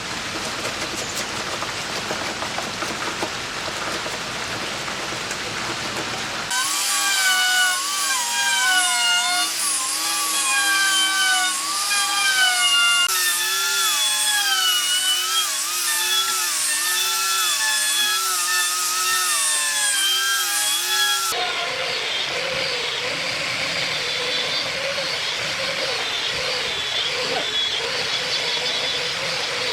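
Power tools working wood in a few edited takes: a steady noisy run, then a whining motor whose pitch dips and recovers over and over as it bites into the wood, then steady machine noise again.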